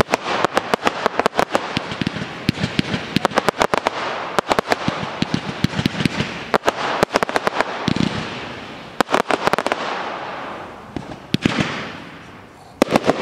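Fireworks going off in rapid volleys of sharp bangs, several a second, over a steady hiss. The firing thins out in the second half and fades away near the end.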